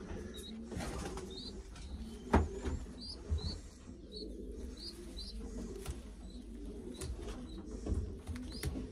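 Racing pigeons cooing in a loft, a low wavering murmur, with a string of short high chirps every half second or so. A few sharp knocks sound through it, the loudest about two and a half seconds in.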